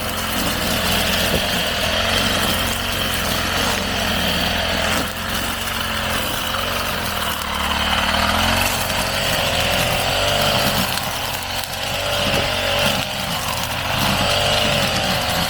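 Small engine of a grass-cutting machine running steadily, its pitch rising and falling as it cuts grass and weeds.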